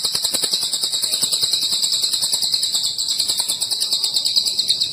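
A cililin songbird singing one long, rapid, high-pitched trill without a break.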